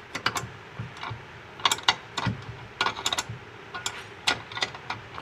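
Metal hand tools clicking and clinking in short, irregular clusters while the clutch hydrovac's mounting bolts are undone.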